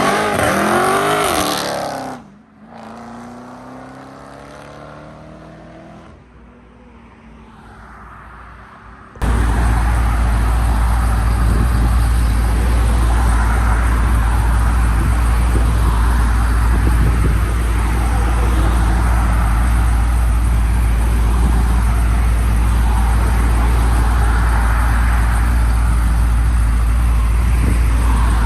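A car engine revving hard as it accelerates away, its pitch climbing, cut off abruptly about two seconds in. A quieter stretch follows with an engine still faintly heard, then a loud, steady rumbling noise with a heavy low end starts suddenly about nine seconds in and holds.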